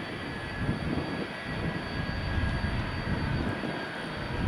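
Jet airliner engines running: a rough low rumble with a few steady high whining tones.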